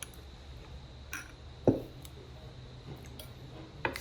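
Light clinks of glassware and dishes at a dining table, with one louder dull knock a little under halfway in.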